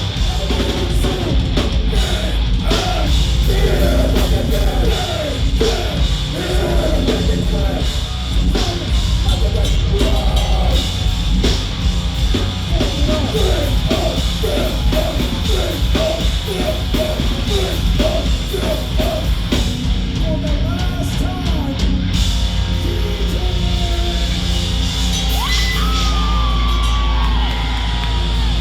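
Heavy metal band playing live, with a vocalist yelling over the loud music; the yelled vocals drop out about twenty seconds in while the band plays on.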